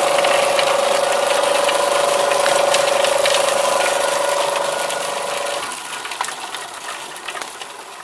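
Homemade apple crusher driven by a Zarya-2M washing-machine motor running with a steady hum under a dense crackle. About five and a half seconds in the hum stops abruptly and the rest of the noise fades away as the crusher runs down.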